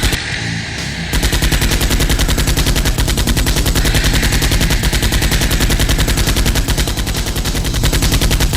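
Sustained rapid automatic gunfire sound effect: a sharp shot at the start, then about a second in a long unbroken machine-gun burst.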